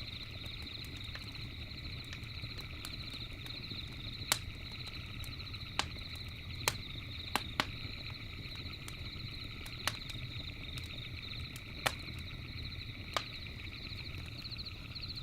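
Campfire crackling, with scattered sharp pops, about eight in all, the loudest about four seconds in, over a low steady rumble. Behind it, insects trill steadily in a high, rapidly pulsing chorus.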